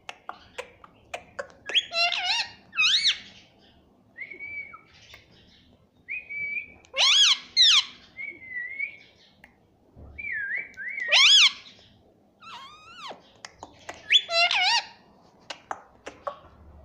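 Pet Indian ringneck parakeet calling without words: a run of loud arching squawks and short level whistles, with sharp clicks between them.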